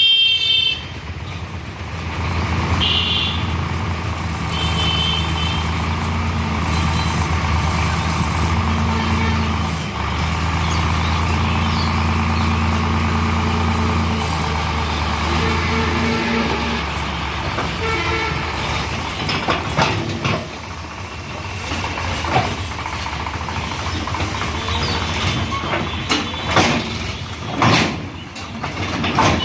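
A heavy diesel vehicle engine runs steadily and hard for about the first half, then drops to a rougher, lower running sound with sharp knocks and clatter near the end. Short high beeps sound twice in the first few seconds.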